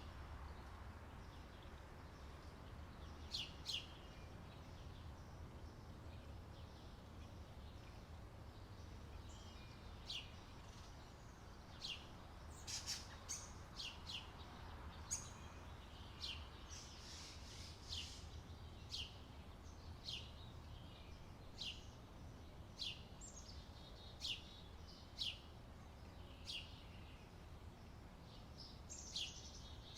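Birds chirping: short, sharp high calls, sparse at first and then coming about once a second, over a low steady rumble.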